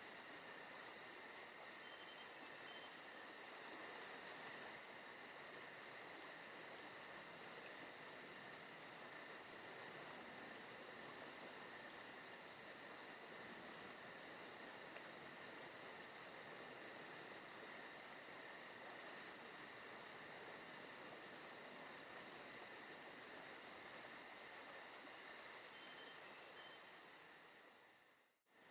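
Recorded forest ambience of crickets and other insects chirping in a steady, faint, continuous chorus. It fades out briefly near the end and comes straight back.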